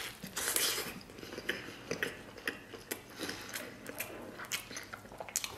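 A person biting and chewing braised lamb rib meat off the bone: many quick wet clicks and smacks of the mouth, with a louder stretch of biting about half a second in.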